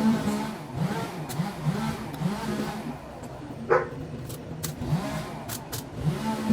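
A construction machine's engine revving over and over, its pitch sliding up and starting again every second or so. A few sharp clicks and a short squeak come through about halfway.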